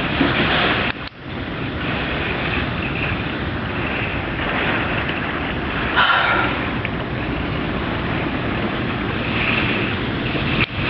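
Severe straight-line windstorm: a loud, continuous rushing of strong wind with gusts buffeting the microphone. It cuts out briefly about a second in and again near the end.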